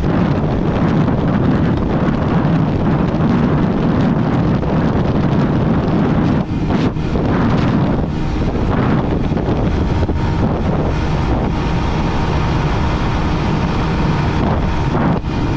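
Bajaj Pulsar 150's single-cylinder engine held near its redline at about 125 km/h, running flat out at top speed. Heavy wind noise buffets the microphone over it.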